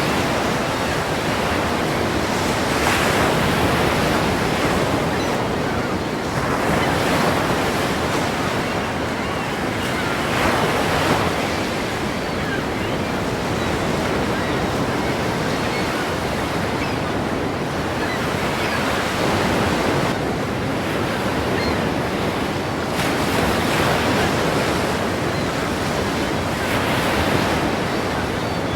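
Ocean surf: waves breaking continuously, with louder crashes swelling in every few seconds.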